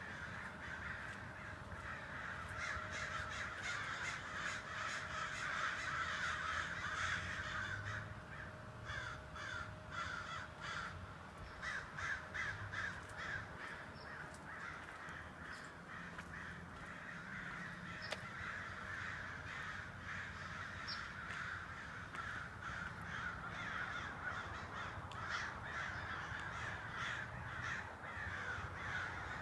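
A large flock of birds calling all at once, many short calls overlapping into a continuous din.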